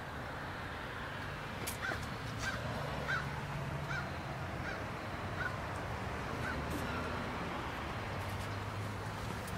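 A bird calling about eight times in an even series, one short call roughly every two-thirds of a second, over a low steady background hum.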